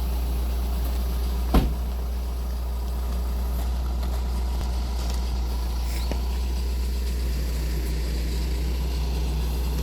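A vehicle's engine idling with a steady low rumble, with one sharp knock about one and a half seconds in.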